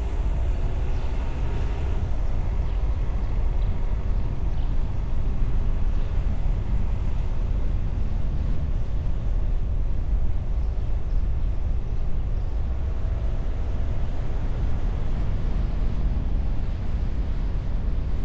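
Car driving on the road, heard from a camera mounted on the bonnet behind a wind muff: a steady low rumble of wind, tyres and engine. A faint engine note rises in pitch in the first couple of seconds.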